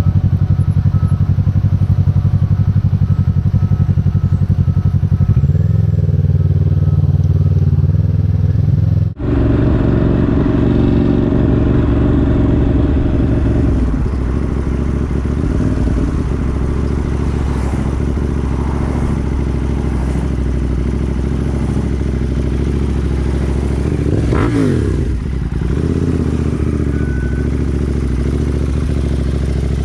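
Motorcycle engine running on the road with steady road and wind noise. The sound breaks off abruptly about nine seconds in and another stretch of running motorcycle follows, with a passing vehicle's pitch dropping about twenty-four seconds in.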